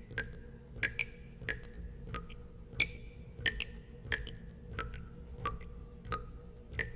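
Water drops falling one at a time into water, each a short plink with a brief ringing tone at a varying pitch, about two a second in an uneven rhythm. A low steady hum runs underneath.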